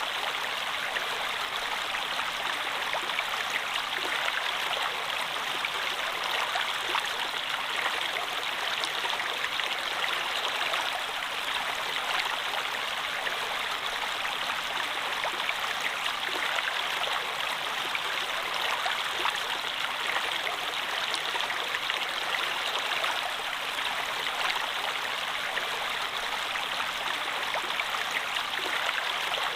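Running water flowing steadily, like a stream, an even rushing wash with fine splashes throughout.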